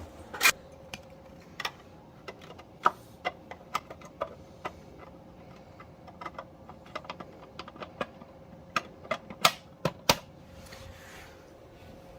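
Irregular plastic clicks and knocks as the evaporative cooler's water-tank cap is put back on and the tank is handled.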